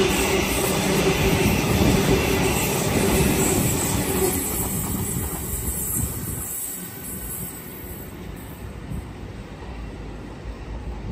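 Train running past on the tracks, loud at first, then fading away between about four and seven seconds in as it draws off.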